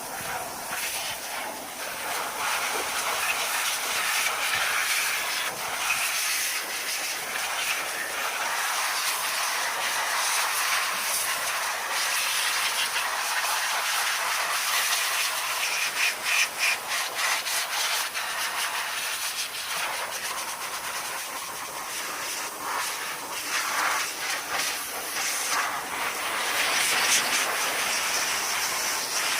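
A pressurised jet hissing steadily, with stretches of sputtering spurts about halfway through and again near the end.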